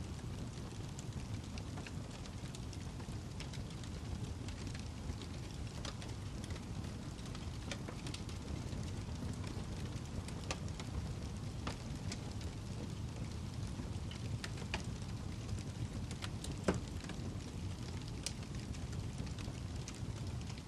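Wood fire burning in a fireplace: a steady low rush of flames with scattered sharp crackles and pops from the burning log, one louder pop about three quarters of the way through.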